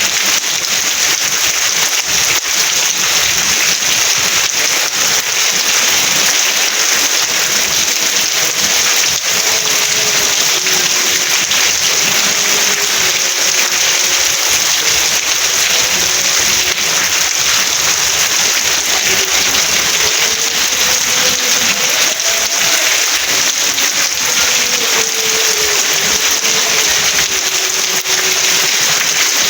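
Steady, loud rain: a dense, even hiss with no breaks.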